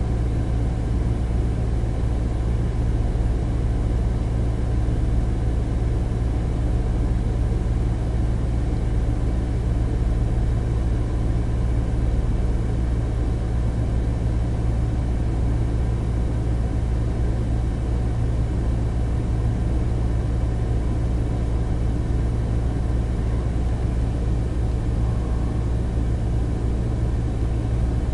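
Taxi engine idling, a steady low rumble heard from inside the car's cabin, with no change in pitch.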